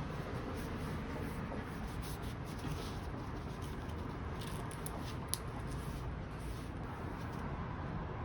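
Bird of paradise leaves being wiped down with a damp sponge or cloth: soft, intermittent rubbing and leaf rustling over a steady low room hum, with one sharp click about five seconds in.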